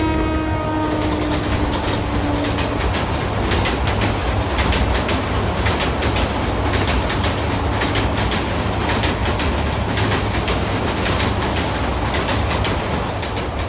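Train running on rails: a steady rumble with rapid clicking over the rail joints. A horn that has just sounded dies away over the first couple of seconds.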